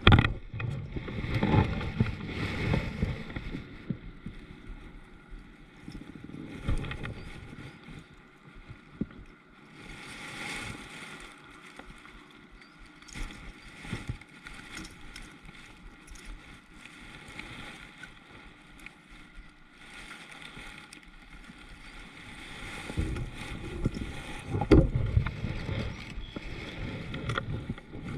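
Kayak on a river: water moving around the hull, with irregular low knocks and bumps that are busiest near the start and again near the end.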